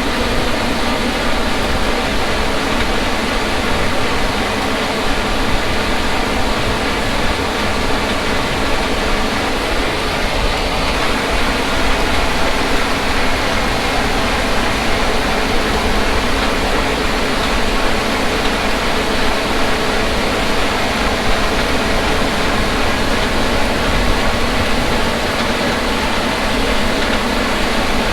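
Harvest machinery running: a loud, steady engine drone with no change in pitch.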